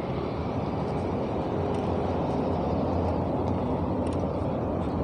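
Steady road noise while cycling along: a constant low rumble of traffic and moving air with no break.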